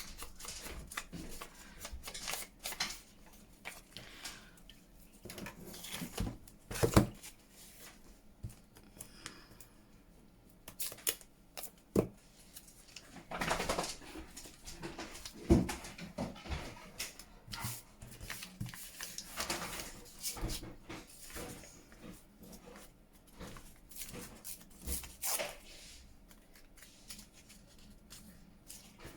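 Hands at work on a paper-craft journal: irregular taps, dabs and rustles of paper and an inking tool, with a few sharper knocks of things set down on the desk.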